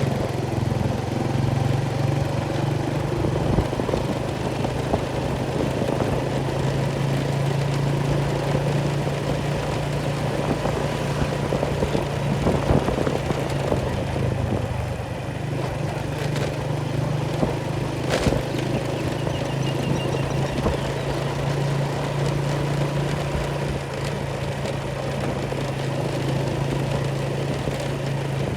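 A small engine running steadily at an even speed, a low continuous drone, with a single sharp click about two-thirds of the way through.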